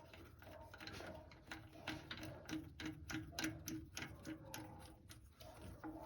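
Faint, quick clicking of a ratchet wrench backing off the nut on the starter's ground-wire bolt, a few clicks a second.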